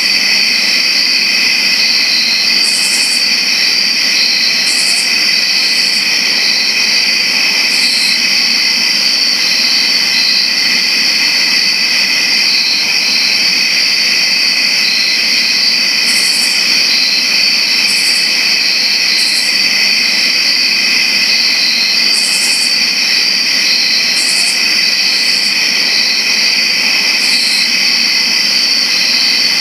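Chorus of crickets chirping continuously in several steady high pitches, with short, higher chirps cutting in every few seconds.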